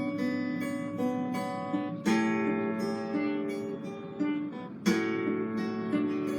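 Guitar being played: single picked notes ringing over one another, with a strummed chord struck about two seconds in and again about five seconds in.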